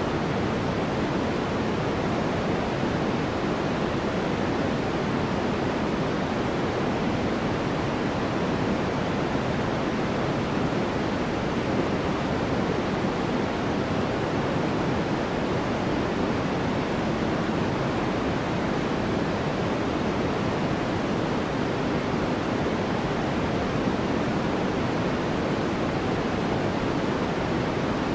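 Steady sleep noise: a constant, even rushing hiss, fuller in the low-mid range and softer up top, closer to pink noise than pure white noise, with no change at all.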